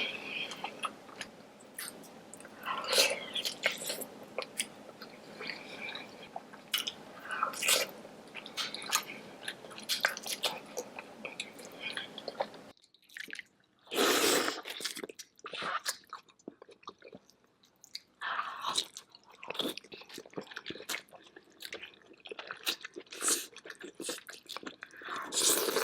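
Close-miked eating sounds of a king crab seafood boil: irregular bites and chewing, with no talking. A faint steady hiss behind the first half stops about halfway through, where a new clip begins.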